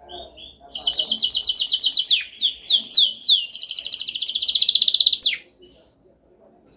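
Domestic canary singing: a fast trill of repeated notes, then a few falling slurred whistles, then a very rapid rattling trill that ends on a falling note about five seconds in. A short pause follows before the song starts again at the very end.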